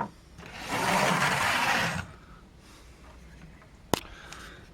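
A rubbing, scraping sound lasting just over a second, then a single sharp click a few seconds later.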